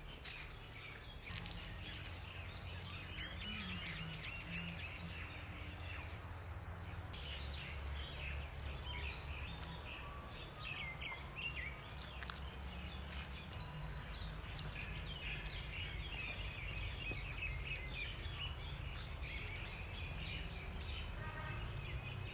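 Many birds chirping and calling in woodland, with rapid short chirps throughout over a steady low rumble and a few scattered light clicks.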